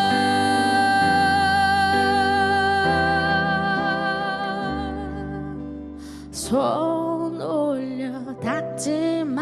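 Live ballad performance: a female singer holds one long note with gentle vibrato over a soft band accompaniment that fades slightly. About six and a half seconds in she breaks into wordless vocal runs that slide up and down in pitch.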